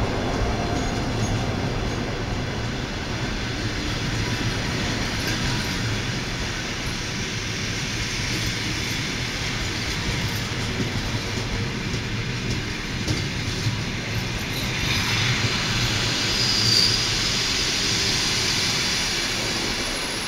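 Ukrainian Railways passenger coaches rolling slowly past, their wheels rumbling and clacking steadily on the rails as the train comes in to stop at its terminus. A short high-pitched squeal cuts through about three-quarters of the way in.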